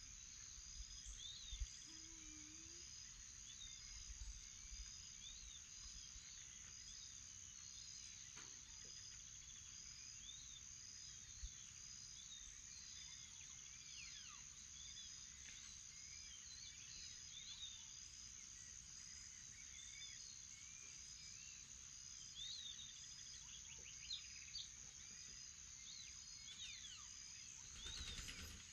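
Morning chorus of insects and birds: a steady high insect drone with a chirp repeating about once a second, over scattered short bird calls.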